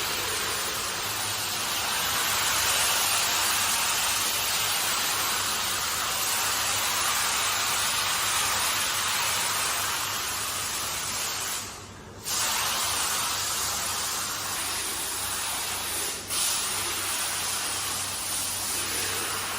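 Hand-held car wash pressure sprayer jetting water onto a carpet, a steady hiss over a low pump hum. It cuts off for about half a second partway through and dips briefly again a few seconds later, as the trigger is let go.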